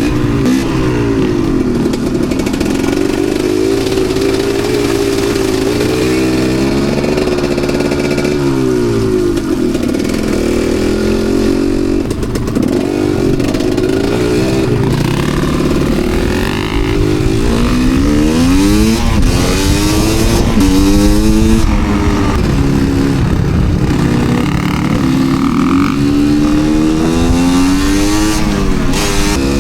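Enduro dirt bike engine revving up and down over and over as the rider works the throttle, its pitch rising and falling every second or two, with quicker, sharper swings in the second half.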